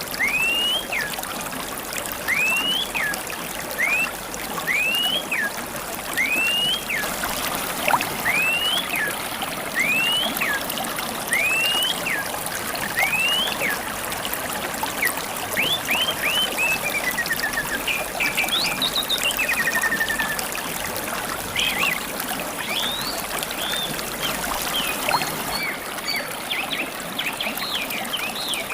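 River water trickling steadily, with a songbird repeating a short whistle that rises then falls, about one a second, giving way in the second half to varied chirps and a quick trill.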